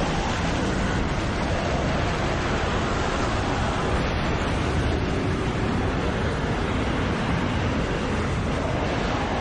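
Strong wind blowing steadily: an even noise with a heavy low end and no clear gusts.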